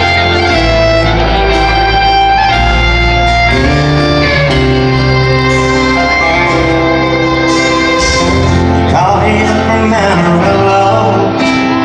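Live country band playing loudly, with fiddle and guitar carrying the melody over bass and drums.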